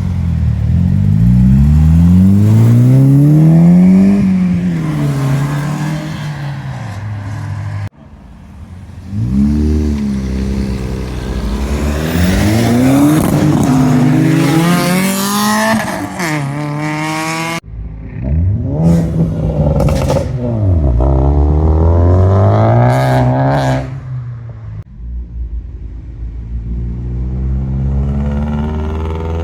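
Modified car engines revving hard and accelerating away, their pitch rising and falling with each throttle blip and gear change, in three back-to-back passes. Sharp cracks sound during the third pass.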